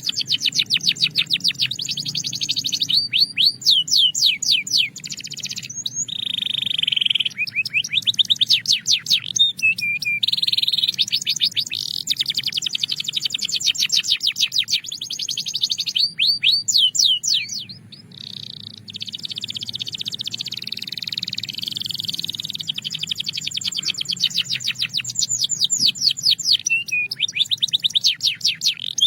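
Belgian canary singing a continuous song: fast trills of rapidly repeated high notes alternating with steadier buzzing phrases. There is a brief break in the song about two-thirds of the way through.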